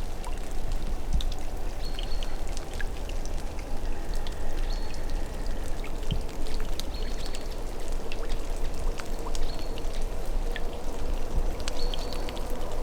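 Steady rush of running water, with scattered drips and clicks throughout and short high chirps now and then.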